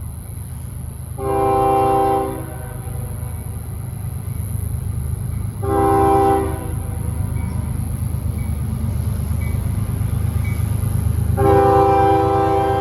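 Approaching CSX freight locomotive sounding its multi-chime air horn: two blasts of about a second each, then a long blast starting near the end, over the steady low rumble of the diesel locomotives.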